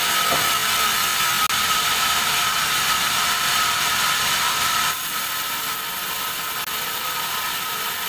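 Sawmill band saw running through a teak log with a steady high whine over hissing noise. About five seconds in, the whine fades and the sound drops a little quieter.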